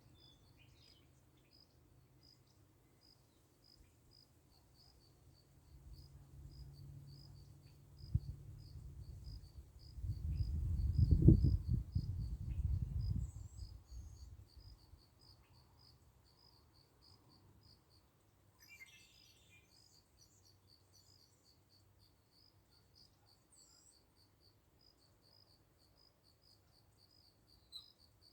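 A cricket chirping steadily, a few short high chirps a second. A low rumble swells and fades in the middle and is the loudest sound.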